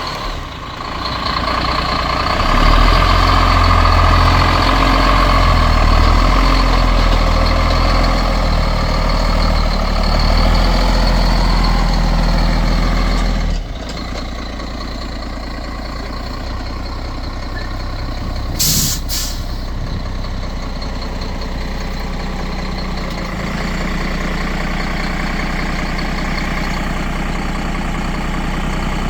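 Freightliner hook truck's diesel engine running hard, then dropping suddenly to a lower, steady idle at about 14 s. A short burst of air hiss comes at about 19 s.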